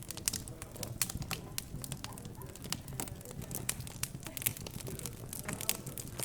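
Wood fire crackling in a fireplace: a quick, irregular run of sharp snaps and pops over a low steady hum, with a faint murmur of background chatter.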